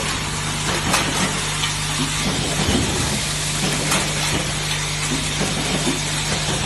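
Semi-automatic spot welding machine running: a steady electrical hum under a continuous crackling hiss, with a couple of sharp clicks about a second in and about four seconds in.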